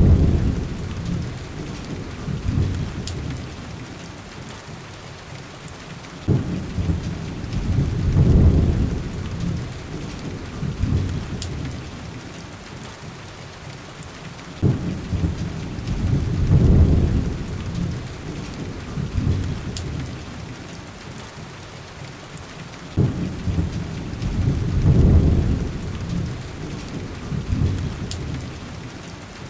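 Steady heavy rain with deep rolling thunder rumbles. There are four rumbles, about eight seconds apart: one fading at the start, then each later one starting abruptly, swelling and dying away.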